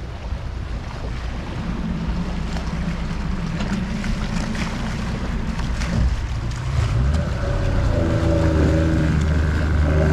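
Motorboat engine running under way, with wind and water rushing past. About six seconds in, the engine speeds up and gets louder.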